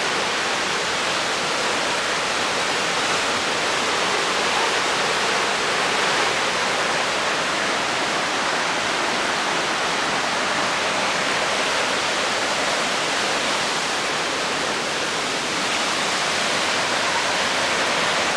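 The Mostnica's water rushing through the gorge: a steady, loud, unbroken hiss.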